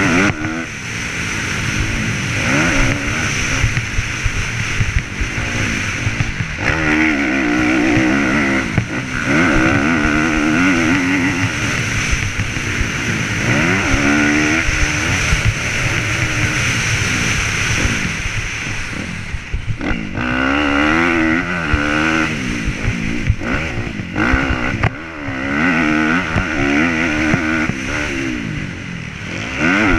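Motocross bike's engine running hard close to the helmet, revving up and dropping again over and over as the rider accelerates and backs off around the dirt track.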